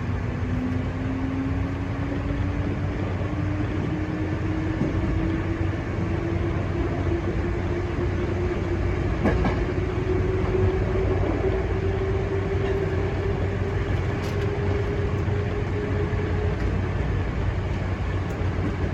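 Hankyu electric commuter train running over a steady rumble of wheels on rails, its traction motors giving a thin whine that rises slowly in pitch as the train gathers speed, then fades near the end.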